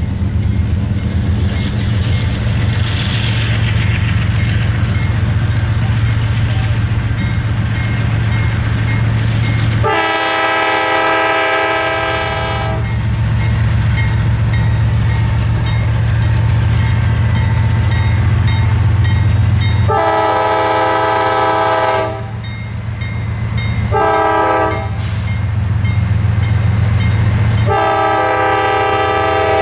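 Diesel locomotive engine running loud and steady close by, then its multi-chime air horn sounding two long blasts, a short one and a final long one. This is the standard long-long-short-long grade-crossing signal.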